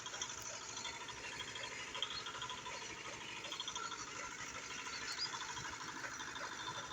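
Fiat 640 tractor's four-cylinder diesel engine idling with a steady, fast mechanical ticking.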